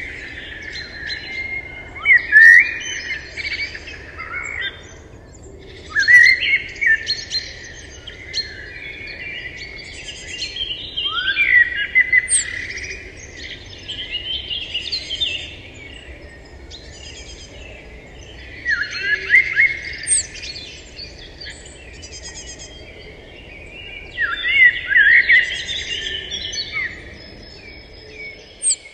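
Birds chirping and calling in bursts of quick notes every few seconds, over a faint steady outdoor background.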